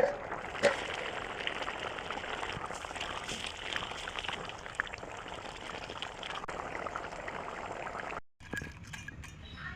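Liquid cooking in a pan on the stove: a steady bubbling, sizzling noise with small crackles. It cuts off abruptly near the end.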